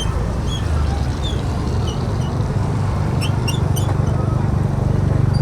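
Motor scooter running on the road, with a steady low engine hum and road noise; the hum grows louder near the end. A few short high chirps and a quick run of clicks sound about three to four seconds in.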